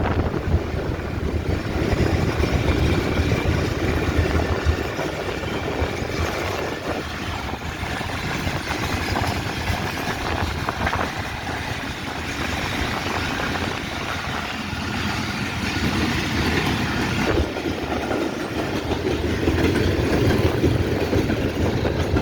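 A train passing: a steady low rumble that holds at about the same level throughout, without clear breaks or single knocks.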